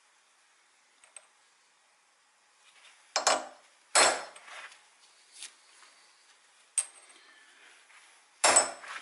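Hammer striking a punch on the metal lathe chuck adapter plate, three sharp ringing metallic blows with lighter clinks between them, marking an index position on the plate.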